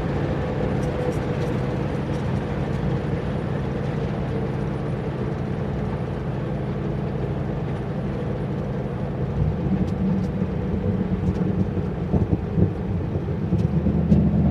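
Turbocharged 351 Windsor V8 in a Fox-body Mustang running steadily while the car is driven. About two-thirds of the way through the engine note changes and grows stronger, with a few louder swells near the end.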